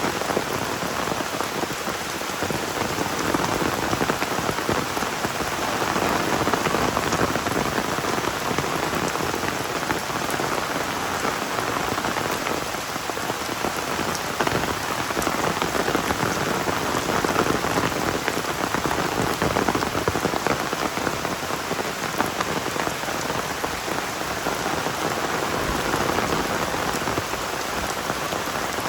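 Heavy rain falling steadily, a dense patter of drops with gentle swells in level.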